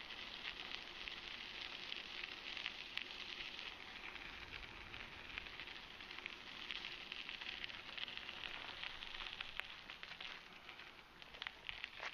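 Bicycle riding over a trail, heard from a handlebar-mounted camera: a steady crackling hiss of tyre and vibration noise, full of small ticks and rattles from the camera shaking in its mount.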